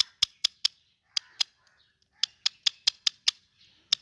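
Ringneck parakeet giving short, sharp calls in quick runs: four in the first second, a pair just after, then a run of six in a row and one more near the end.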